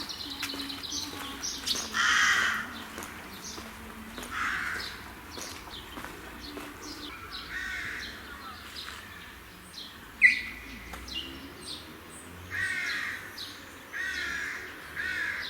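Birds calling outdoors with harsh, repeated caws, a few seconds apart at first and then in a quicker run near the end, with one sharp, loud short call about ten seconds in.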